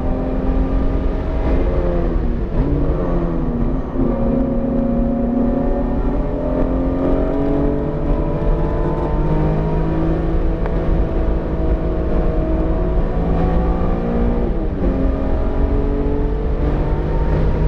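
BMW E46 M3's S54 straight-six running under load, its revs climbing slowly, with the pitch dropping and coming back up about two seconds in and again near the end, as on a lift or gear change. The engine is freshly built and still in break-in, revs held below 7,000 rpm.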